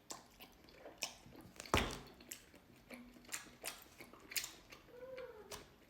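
Close-miked chewing of chewy Korean rice cakes (Yopokki tteokbokki): irregular soft wet clicks and smacks of the mouth, one louder smack about two seconds in.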